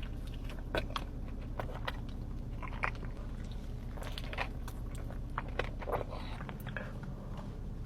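Close-miked biting and chewing of a taco: irregular crisp crunches and smacks over a steady low hum.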